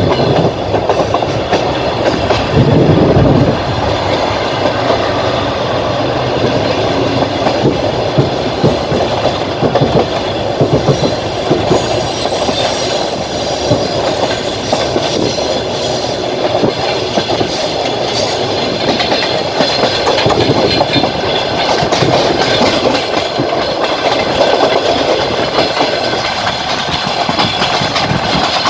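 Passenger train carriage running along the line, its wheels clacking over rail joints with a steady rumble, heard at the carriage window. A louder low rumble swells about two to three seconds in.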